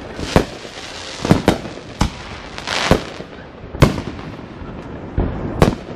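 Fireworks going off: a quick run of sharp bangs, about eight in six seconds, with a crackling hiss about halfway through.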